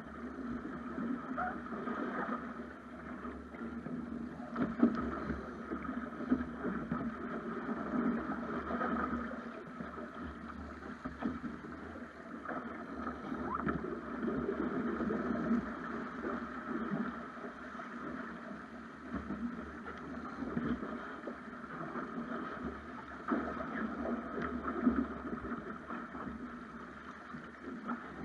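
Water rushing and splashing along the hull of a Snipe sailing dinghy under way, with a few sharp knocks.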